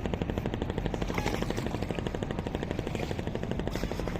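Motorboat engine running steadily with a rapid, even chugging.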